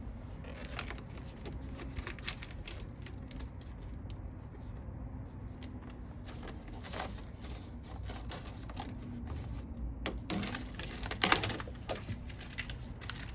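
Scattered light clicks and knocks of parts and hand tools being handled during work on a truck, with a louder clatter about eleven seconds in.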